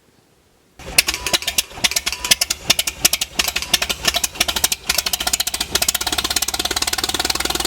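Farmall tractor engine starting cold, catching suddenly about a second in, firing unevenly at first, then settling into a fast, steady idle.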